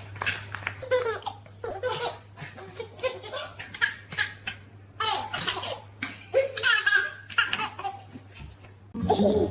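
A baby laughing and giggling in short bursts with brief pauses. Music comes in near the end.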